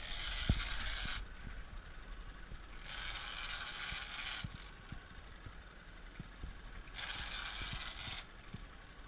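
Shimano Tiagra 50W big-game reel being cranked in three bursts of a second or so each, a whirring with a steady high whine from the gears, with pauses between the bursts.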